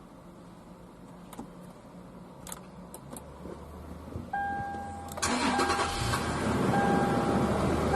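A car engine is cranked and starts about five seconds in, then keeps running. A dashboard warning chime sounds repeated steady beeps, starting just before the engine catches. A few light clicks come earlier.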